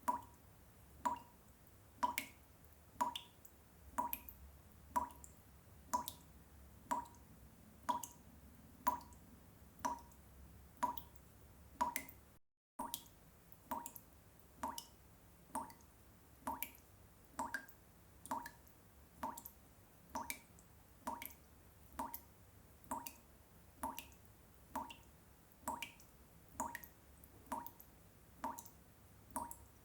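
Water dripping, single drops falling at an even pace of about one a second, each a short plink. The dripping cuts out for a moment about twelve seconds in, then carries on slightly faster.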